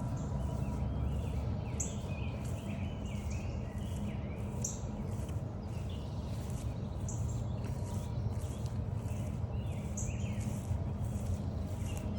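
Several songbirds calling and singing in woodland, with one short high note repeated every two to three seconds, over a steady low rumble.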